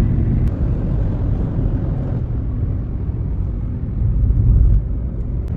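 Road noise of a moving car: a steady low rumble of engine and tyres, swelling briefly about four seconds in.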